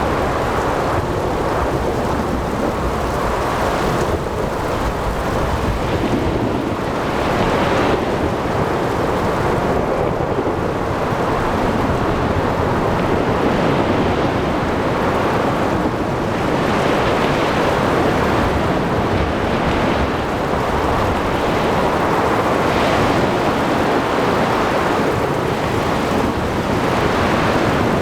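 Thunderstorm at sea: steady rain and blowing wind over low rumbling thunder, with waves splashing and swelling every several seconds.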